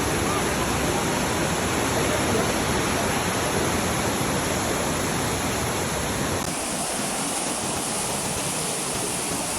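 Steady loud rush of a waterfall's falling water. About six and a half seconds in the sound shifts slightly, with less low rumble.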